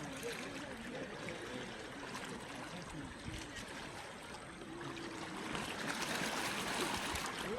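Sea waves washing on the shore, a steady rushing wash that swells louder over the last couple of seconds.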